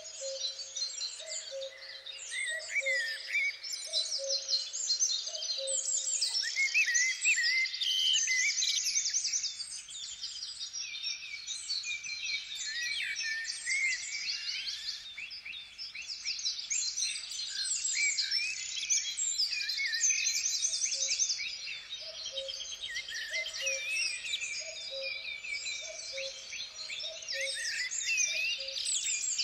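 A dense chorus of songbirds singing, many fast chirps and trills overlapping. In the first few seconds and again from about two-thirds of the way through, a low two-note call repeats evenly, a little over once a second, beneath them.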